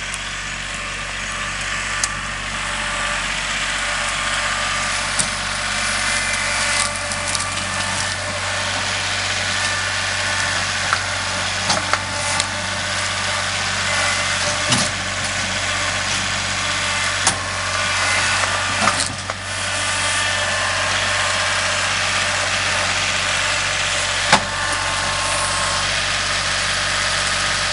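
Kubota L3301 hydrostatic diesel tractor running steadily, its low engine drone continuous, with scattered knocks and rattles along the way.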